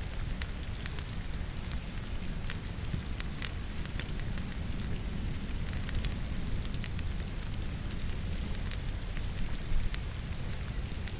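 Firewood crackling in a fireplace, with irregular sharp pops over a steady hiss of falling rain and a low rumble. One louder pop comes near the end.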